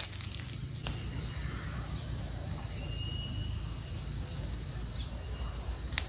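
A steady, high-pitched drone of insects, a little louder from about a second in, with a few faint short bird chirps.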